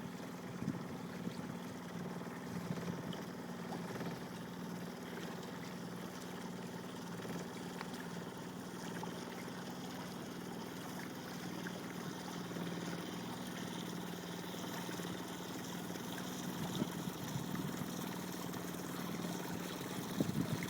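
A boat engine running steadily at a low, even hum, with water trickling and splashing.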